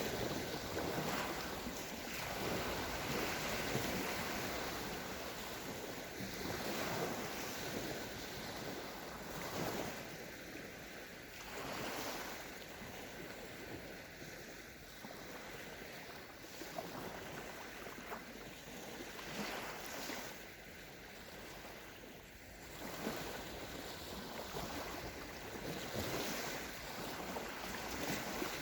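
Small sea waves breaking and washing onto a sandy shore, the surf swelling and easing every few seconds.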